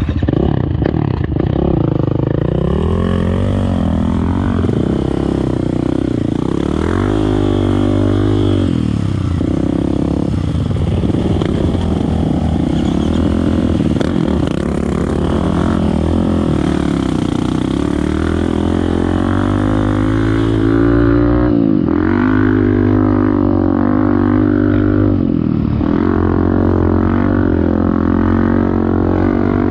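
Dirt bike engine revving up and down continuously, its pitch rising and falling again and again with gear changes and throttle.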